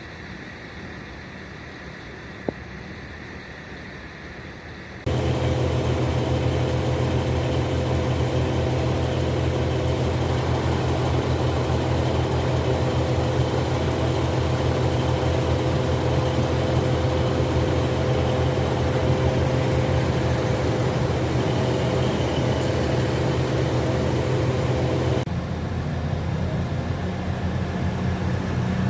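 A train's engine running steadily with a low, even drone. It starts abruptly a few seconds in and changes abruptly to a different steady drone near the end, as if from cut-together clips. Before it there are a few seconds of quieter station background with a single click.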